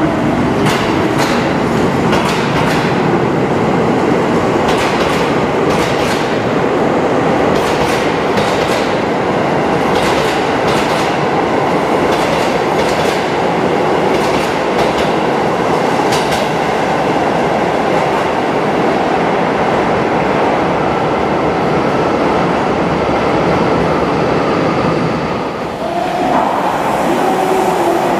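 Train moving through a station, its wheels clacking over rail joints in paired beats every second or two over a steady rolling rumble. Near the end the rumble dips and some steady tones come in.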